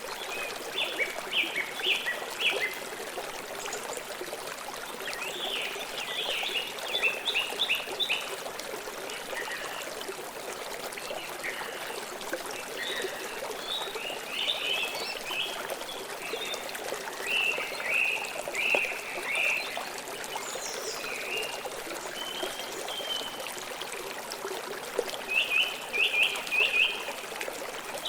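Steady rush of river water flowing, with birds chirping in short bursts of quick, high, repeated notes every few seconds.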